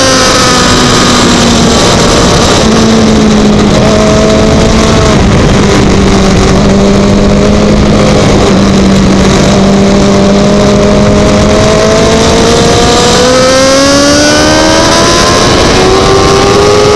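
Racing motorcycle's engine at speed, heard through heavy wind noise on a bike-mounted camera. It eases slightly at first, holds a steady pitch for most of the stretch, then rises steadily as the bike accelerates near the end.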